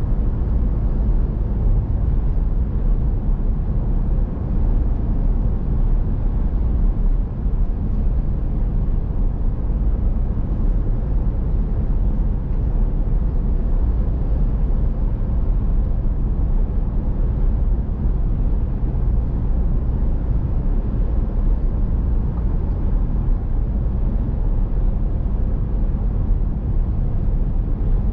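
Steady road noise of a vehicle driving along: a constant low rumble from the tyres and engine, with no change in speed.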